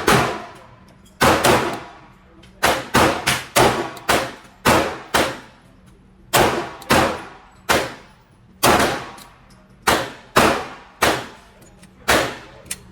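9mm Glock 45 pistol fired repeatedly on an indoor range, about twenty shots in quick strings of two or three, each shot ringing off the range walls.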